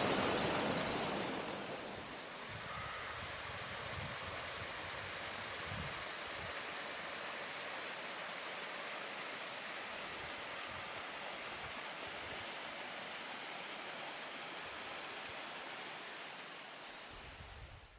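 Waterfall rushing: a steady wash of falling water, louder for the first two seconds, then even and a little softer, and dropping away near the end.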